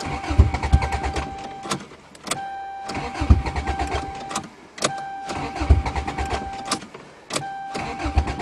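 Toyota GTS engine being cranked by the starter in four short bursts, each opening with a click, with a steady whine and an even chugging, but not catching: a cold start in freezing weather that fails.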